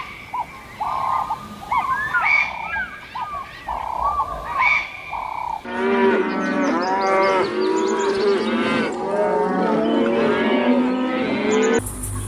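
Farm animals calling. There are a few separate calls in the first half, then after an abrupt change many animals call at once over each other until near the end.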